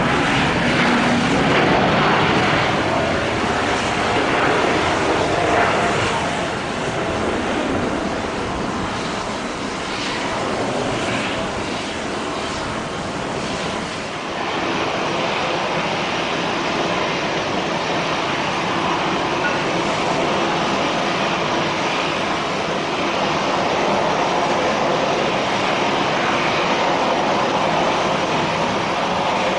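Jet airliner engines running loud and steady near the runway. Around halfway the sound changes abruptly to a second steady jet engine sound from another airliner.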